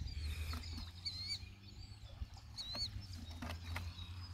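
A small bird chirping outdoors: short, wavy up-and-down calls repeated several times, over a steady low rumble, with a few faint clicks.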